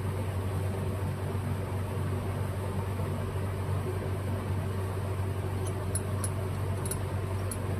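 Steady low mechanical hum of a running machine, with a few faint light clicks near the end.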